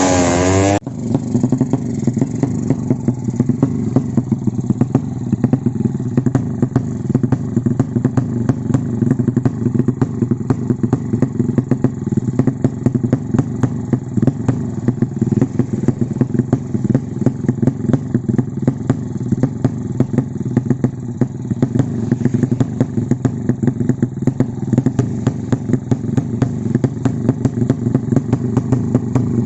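Motorcycle engine running: a rev breaks off sharply about a second in, then the engine idles steadily with a rapid, even pulsing.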